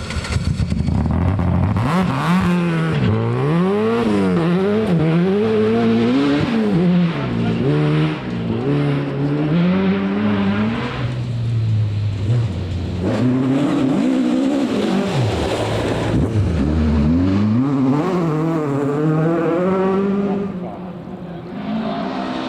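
Rally car engine revving hard, its pitch climbing and dropping again and again as it runs through the gears and lifts off for corners. There is a longer climb and a sharp fall near the middle, and the sound eases slightly near the end.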